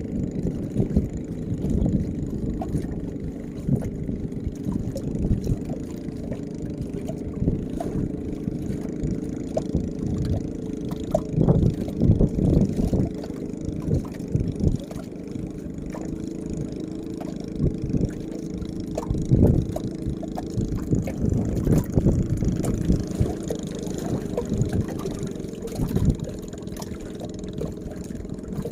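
Strong, gusting wind buffeting the microphone: an uneven low rumble that swells and dips, loudest in gusts about 11 to 13 seconds in and again about 19 seconds in.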